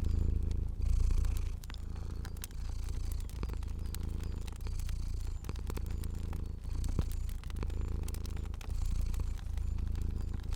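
A domestic cat purring steadily, the low rumble swelling and dipping with each breath a little under once a second. Fire crackling over it in small sharp pops and clicks.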